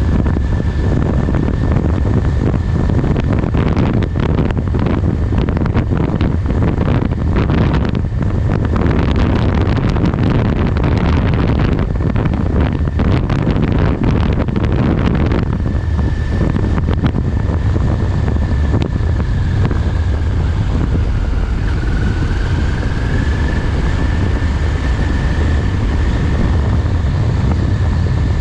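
Heavy wind rushing over the microphone on top of a steady low engine drone, with a thin whine that sags briefly a little past the middle and then recovers.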